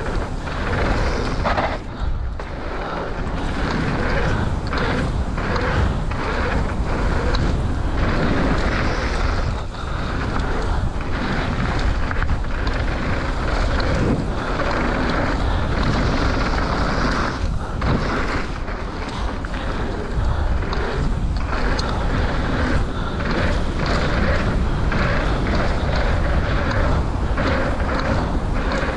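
Mountain bike riding down a dirt trail: tyres rolling on dirt and gravel, with wind buffeting the microphone and frequent knocks and rattles as the bike goes over bumps.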